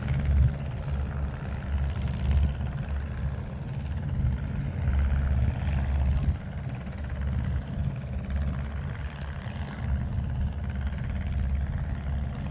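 Wind buffeting the microphone: a low rumble that swells and dips unevenly.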